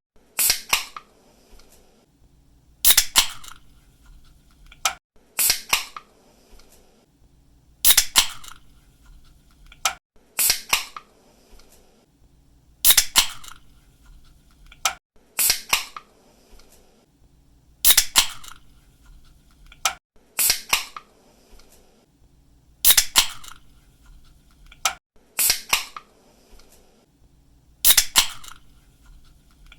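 Aluminium soda or energy-drink can pull-tab being cracked open again and again. Each opening is a sharp double click: the tab snapping and the seal popping. The openings come about every two and a half seconds.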